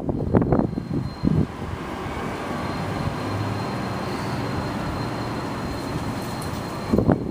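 Wind buffeting the microphone in gusts at the start and again near the end, with a steady vehicle rumble and a faint high whine between the gusts.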